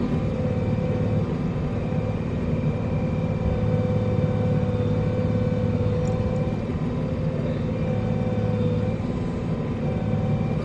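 Diesel engine of a tree processor running steadily at a constant speed.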